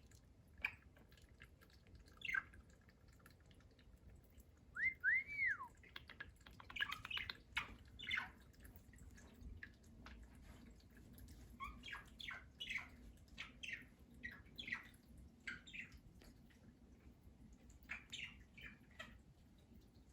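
Budgerigar chirping in short scattered calls, with two clear whistles that rise and fall about five seconds in.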